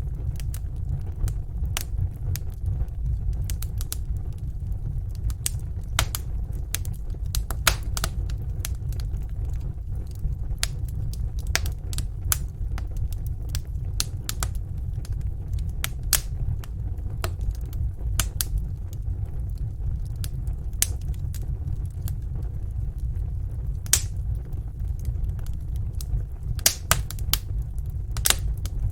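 Wood fire burning in a fireplace: a steady low rumble of flames with irregular sharp crackles and pops, a few louder pops near the end.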